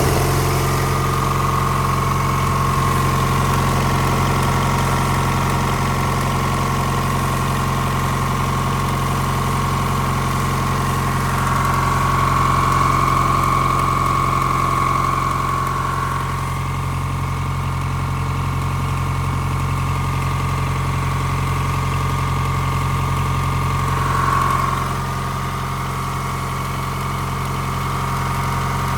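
Tata bus engine idling steadily. A higher whine runs over it and grows louder for a few seconds about twelve seconds in, and briefly again near the end.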